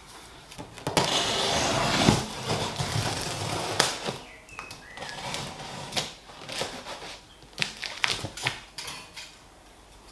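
Cardboard shipping box being opened by hand: a long ripping, scraping noise about a second in, then scattered rustles, clicks and knocks of flaps and packing being handled, quieter near the end.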